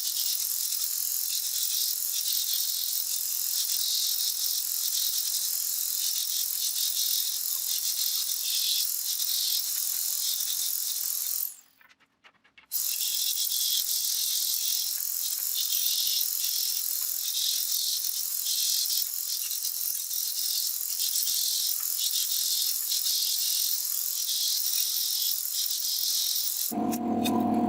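Steady high-pitched chirring of an insect chorus, cutting out for about a second near the middle. Shortly before the end, a lower pitched sound comes in.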